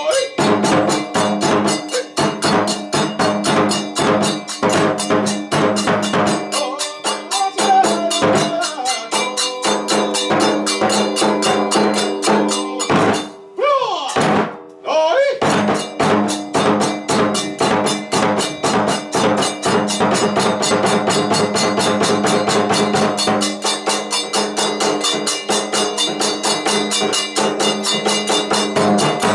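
Kagura accompaniment music: fast, steady drumming with sustained tones held over it, breaking off briefly about halfway through.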